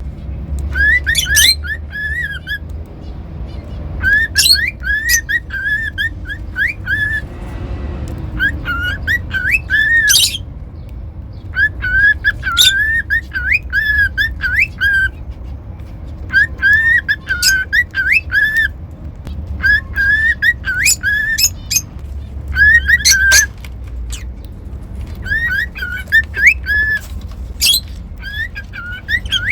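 Cockatiel whistling: phrases of short, rising whistle notes mixed with sharp chirps, repeated in bursts of one to three seconds with short pauses between, over a low steady hum.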